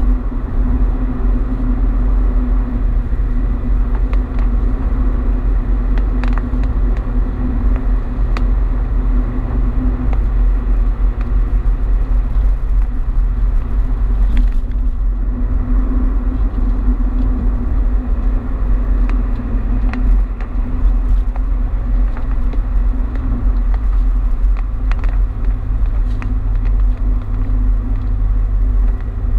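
Car driving on a highway: a steady low rumble of engine and tyre noise that holds even throughout, with a few faint clicks.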